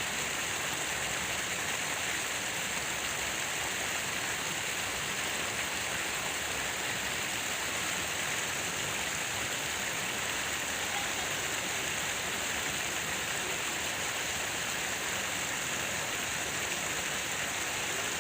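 Falling water splashing steadily, an even rushing hiss with no breaks.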